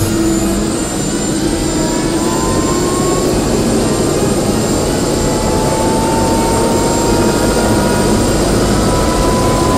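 A-Star 350 helicopter running, its single turboshaft engine and rotors making a loud, steady noise, with a whine that slowly rises in pitch.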